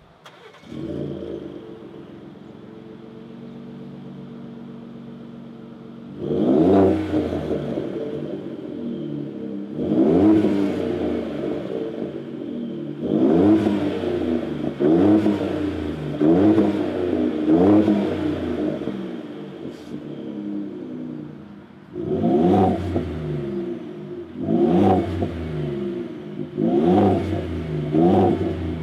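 Ford F-150 3.5L EcoBoost twin-turbo V6 heard through its exhaust. It starts about a second in and settles to a steady idle, then from about six seconds in it is blipped through a series of quick revs, each rising and falling back to idle, about eleven in all, coming faster near the end.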